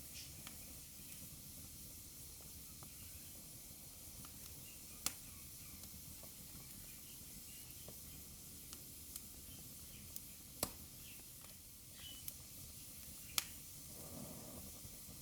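Wood fire burning in a fireplace: a soft steady hiss with scattered sharp crackles, the three loudest pops coming about five, ten and a half and thirteen seconds in.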